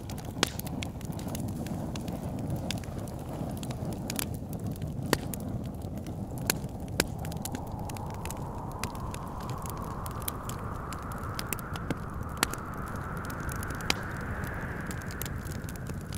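Wood fire crackling, with scattered sharp pops over a low steady rumble. A gust of wind whistles in from about halfway through, rising in pitch toward the end.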